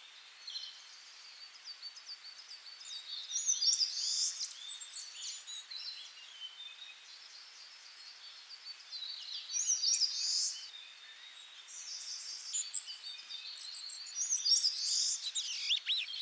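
Small songbirds chirping and singing, high-pitched, with a louder burst of sweeping song every few seconds and fainter chirps between.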